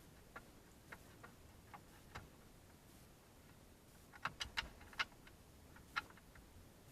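Faint, irregular small clicks and ticks of a screwdriver undoing a dash-panel screw, with a quick run of clicks about four to five seconds in.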